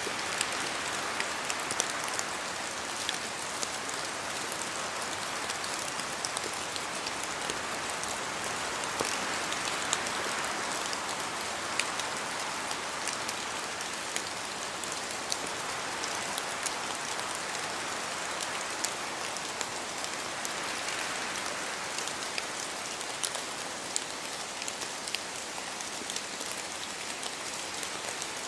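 Steady rain falling through forest trees, with many separate drops ticking sharply over the hiss. The hiss swells and eases a few times, as with gusts of wind in the trees.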